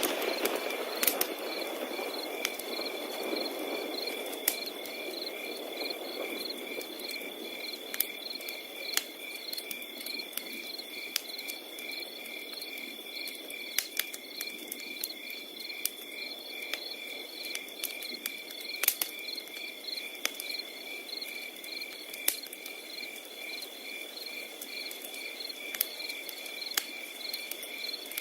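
Crickets calling without a break: one holds a steady high trill while another chirps in even pulses about twice a second. Over them a wood fire crackles with irregular sharp pops, and a soft rush of burning is stronger in the first few seconds.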